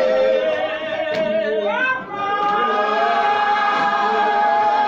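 A group of voices singing long, held notes in a worship service, with a rising slide in pitch about two seconds in.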